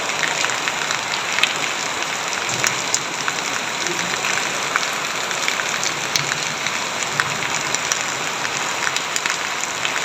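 Heavy rain falling steadily, a dense hiss full of sharp splats of individual drops striking a surface.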